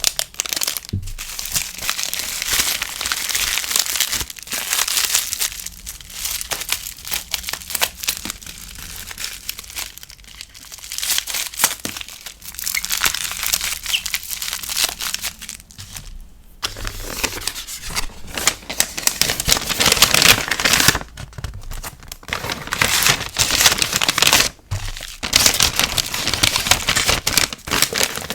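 Packaging material crinkling and rustling as it is handled during order packing: a dense run of crackles and small clicks, with a few brief pauses.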